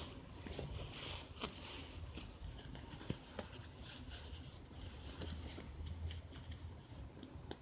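Soft rustling of fabric and light handling noises with a few faint ticks, as a cotton onesie is pulled onto a reborn doll.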